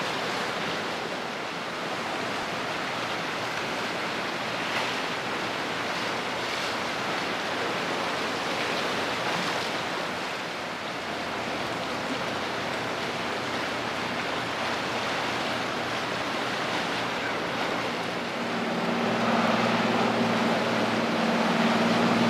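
Steady rushing noise of wind and water. About 18 seconds in, the low, steady hum of a ship's engine comes up over it and grows louder.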